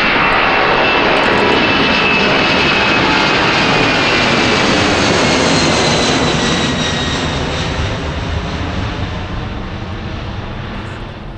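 Airliner passing close by under engine power, a loud rushing roar with a whine that slides down in pitch as it goes past, fading over the last few seconds.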